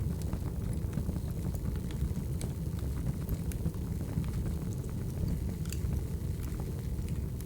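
Wood fire burning with a steady low rumble and frequent scattered crackles and pops.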